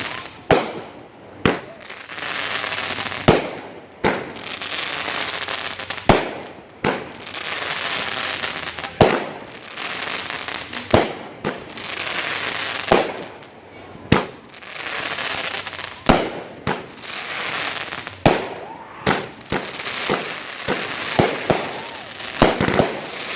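Fireworks going off: a sharp bang every two seconds or so, each followed by about a second of crackling hiss, with a quicker run of pops near the end.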